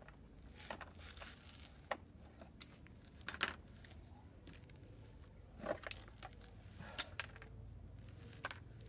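Scattered clicks and knocks of a motorcycle battery being handled and lifted out of its compartment, about half a dozen separate sounds spread over several seconds.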